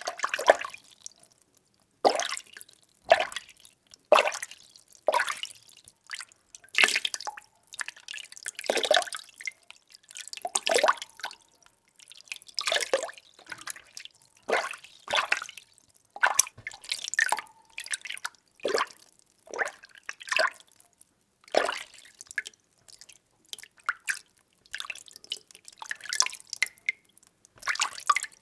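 Water being stirred by hand in a container: a run of separate sloshes and splashes, about one a second, with short quiet gaps between them.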